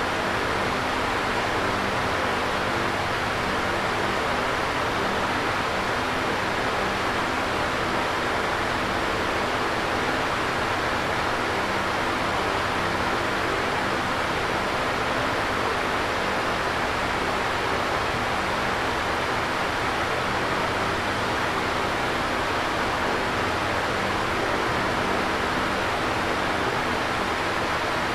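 Electric fan running steadily: an even rush of moving air, with a faint steady hum underneath.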